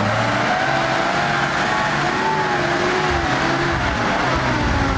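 Car engine revving under load, its pitch rising and falling unsteadily.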